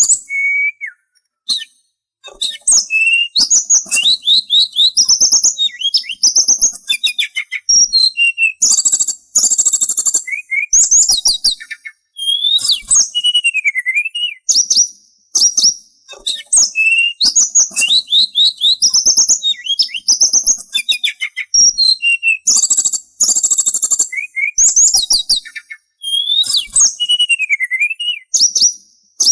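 A sulingan songbird singing a long, varied song of clear sliding whistles and fast chattering trills, with only a few brief pauses.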